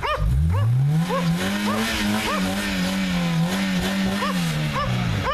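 1998 Honda Civic's 1.6-litre D16Y7 four-cylinder engine revving hard to drive out of deep snow: the revs climb quickly, hold high with small wavers, then drop off near the end. A dog yelps in short calls over it again and again.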